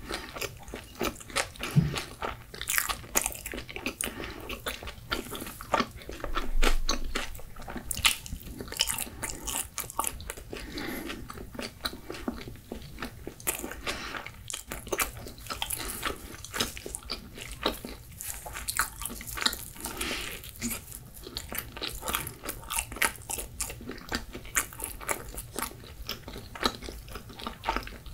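A person chewing a mouthful of pizza close to the microphone, with frequent irregular crunches and clicks from the crust.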